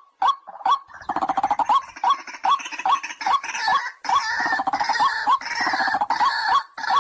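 White-breasted waterhen calling: a short hooked note repeated about two to three times a second, with a harsh croaking rattle running under it from about a second in until near the end.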